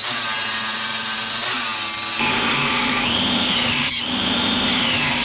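An electric power tool running steadily with a high whine. The whine dips in pitch and recovers about midway and again near the end, as the tool comes under load.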